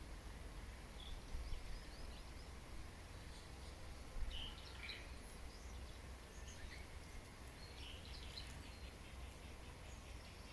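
Birds chirping and calling faintly: scattered short chirps at irregular intervals over a low, steady rumble of background noise.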